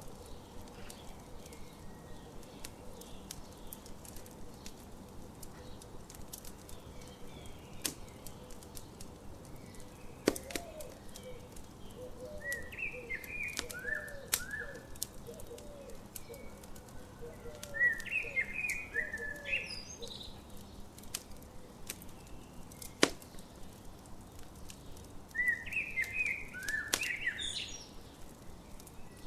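Wood campfire crackling with frequent sharp pops, a few of them loud, over a soft hiss. Songbirds sing short chirping phrases in three bursts, and a low call repeats again and again through the middle.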